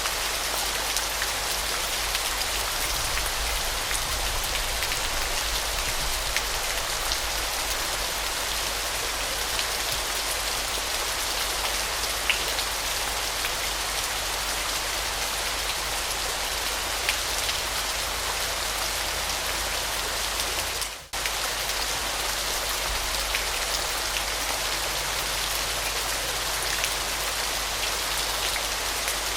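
A waterfall's falling water, a steady dense hiss of spray and splashing, with a brief sudden dropout about two-thirds of the way through.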